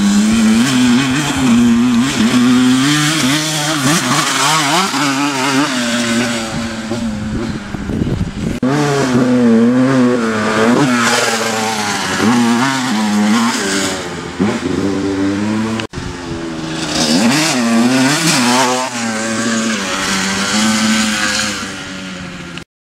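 Honda dirt bike engines revving on and off the throttle while riding, the pitch rising and falling over and over. The sound breaks off sharply twice, about a third and two-thirds of the way through, and stops suddenly near the end.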